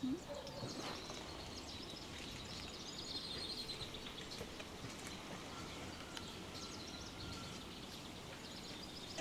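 Small birds chirping repeatedly over a steady background of outdoor noise.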